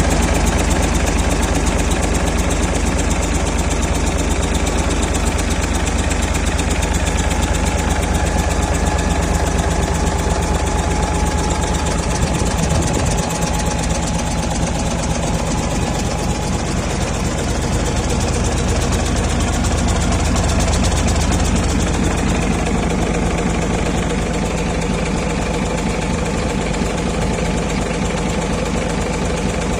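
Hino E13C inline-six turbo-diesel truck engine running steadily at idle, with a continuous low diesel clatter.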